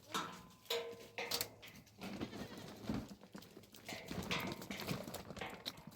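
Goats bleating, with a short bleat in the first second and fainter sounds after.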